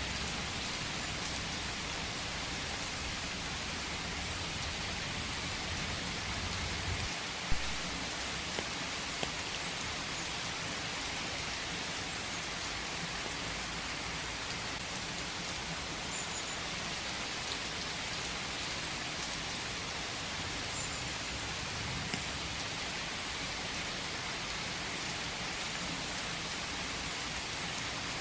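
Steady rain falling, an even hiss with a few sharper drop hits, the loudest about seven seconds in.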